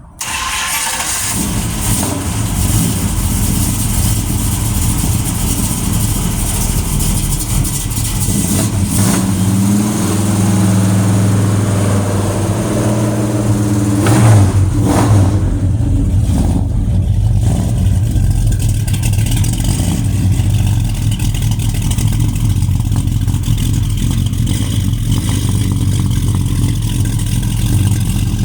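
Exhaust note of a 340 cubic-inch small-block Chrysler V8 with headers, 3-inch pipes and two-chamber Flowmaster mufflers, cutting in suddenly and running steadily, with the pitch rising and swelling as it accelerates, loudest about 14 seconds in, then settling back to a steady run.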